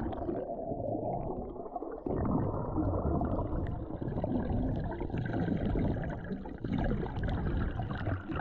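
Lake water sloshing and gurgling around a person moving through it, heard muffled and rumbling close to the water.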